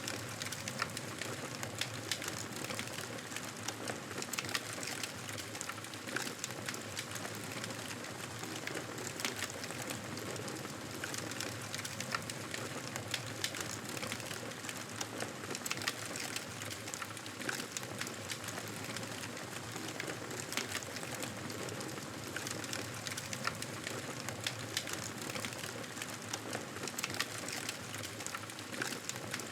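Wood fire in a fireplace crackling, with frequent irregular sharp pops and snaps over a steady hiss.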